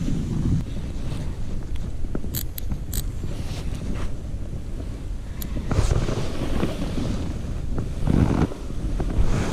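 Wind buffeting the microphone, a steady low rumble that swells in gusts, with a few small sharp clicks.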